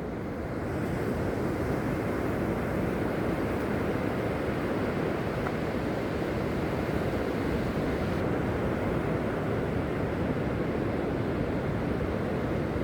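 Steady rush of sea surf mixed with wind buffeting the microphone, an even low noise with no distinct strokes.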